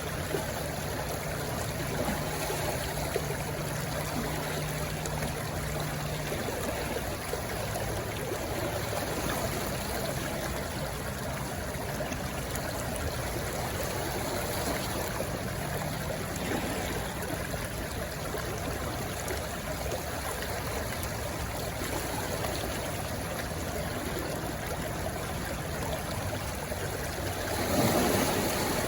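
Stream water rushing and splashing steadily, with a brief louder swell near the end.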